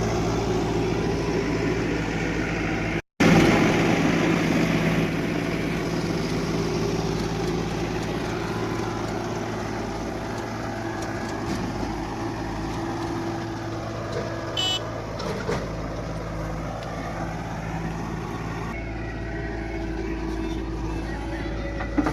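Diesel engines of a JCB backhoe loader and tractor running steadily while soil is loaded. The sound cuts out for an instant about three seconds in and is louder after. A short high beep comes about fifteen seconds in.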